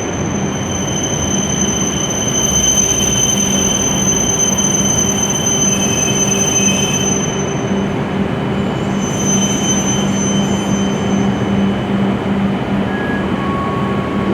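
W7-series Hokuriku Shinkansen train moving through the station at low speed: a steady, loud running noise with a thin high-pitched squeal from the wheels or brakes, and a hum underneath. The squeal drops out for a moment a little past the middle.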